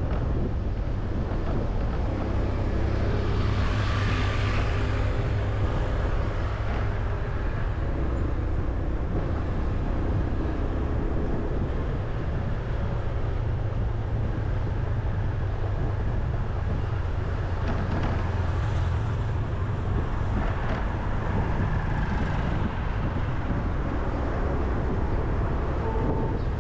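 Steady low rumble of road traffic, with vehicles passing close about four seconds in and again near nineteen seconds.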